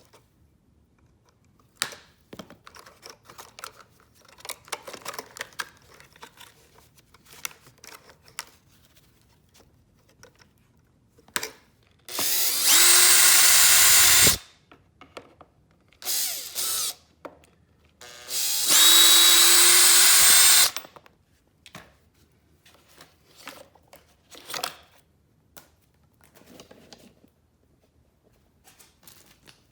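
Power drill/driver running in two bursts of about two seconds each, roughly 12 and 19 seconds in, with a shorter burst between, each spinning up to a steady whine. Around them, small clicks and clinks of metal parts being handled.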